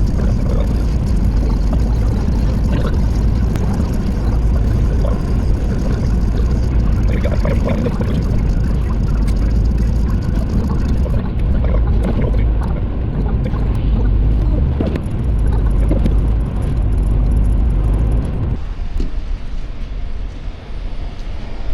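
Steady rumble of a car driving on the highway: tyre and wind noise, easing a little near the end.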